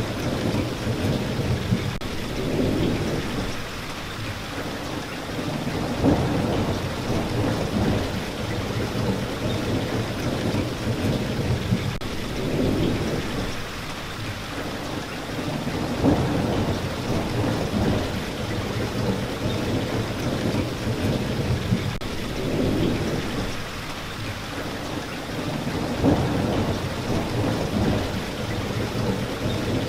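Steady rain falling, with low rumbles of thunder swelling through it about every ten seconds.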